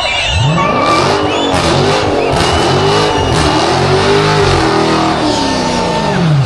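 A car's engine revved hard. The revs climb about half a second in, then swing up and down several times, and near the end they dip sharply and climb again, as in a burnout or donuts.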